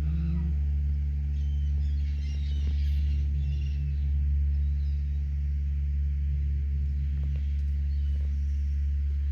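A steady low hum, with faint, short seagull calls about one and a half to three and a half seconds in.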